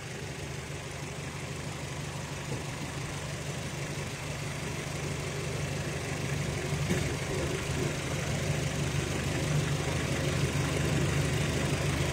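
A vehicle engine idling steadily, growing slightly louder over the few seconds.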